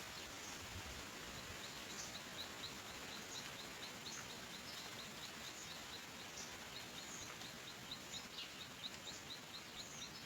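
A bird chirping faintly, a short high note repeated about three times a second, with a few other brief calls over a steady background hiss.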